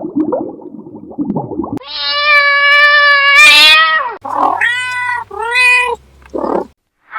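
Domestic cat meowing: one long drawn-out meow that rises in pitch at its end, followed by two shorter meows. A rough, pitchless noisy sound comes before the meows.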